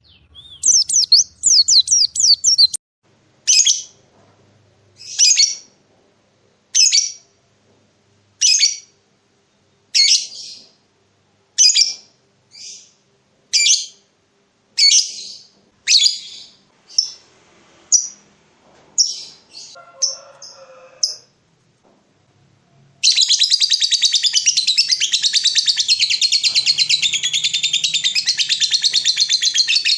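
A songbird singing. It opens with a quick trill, then gives short sharp chirps about every second and a half that come faster and closer together. After a brief pause it breaks into a long, fast, unbroken run of song.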